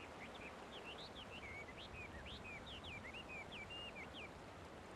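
A small bird singing a quick run of short, high chirping whistles that stops about four seconds in, over a faint steady background hiss.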